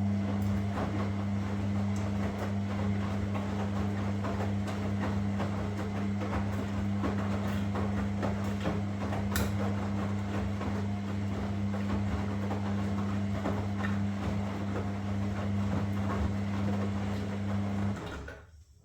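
Washing machine running: a steady low hum with a busy, clicking noise over it, which cuts off suddenly about 18 seconds in.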